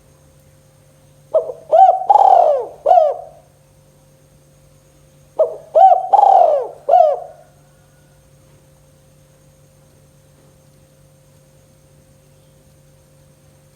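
Spotted dove (tekukur) cooing: two phrases of about five notes each, a few seconds apart.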